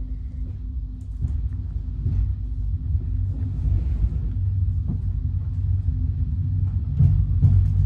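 Low rumble of a regional train coach rolling on the rails, heard from inside the carriage, growing louder as the train gathers speed just after departure. A few short clicks of the wheels over the track stand out above it.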